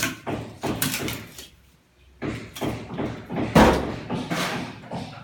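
A rapid series of knocks and bangs, with a brief pause about a second and a half in and the loudest bang about three and a half seconds in.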